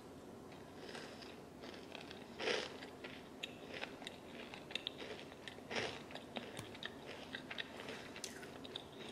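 A person chewing a homemade chocolate chip cookie with Reese's peanut butter cups baked in: quiet chewing with many small mouth clicks, and two louder noises about two and a half and six seconds in.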